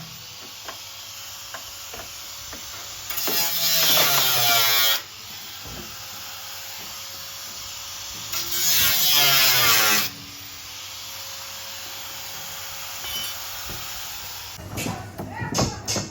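Two bursts of a handheld power tool running in a car body workshop, each about two seconds long, with faint tapping between them. Music with a beat comes in near the end.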